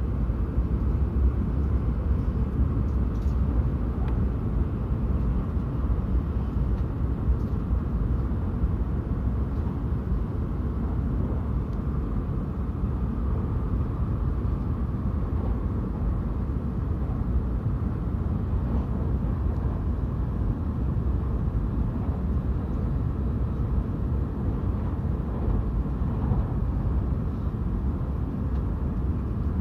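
Running noise of a Hayabusa Tohoku Shinkansen train heard from inside the car: a steady low rumble of the train travelling at speed.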